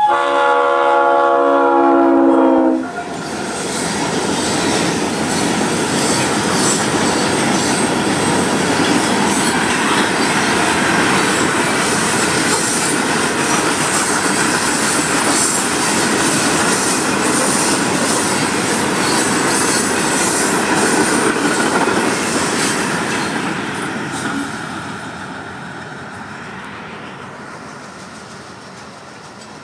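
A freight locomotive's multi-note air horn sounds one chord for about three seconds and cuts off sharply. Then comes the loud clatter and rumble of a loaded rock hopper train's wheels running over the rails as it passes, which fades away over the last several seconds.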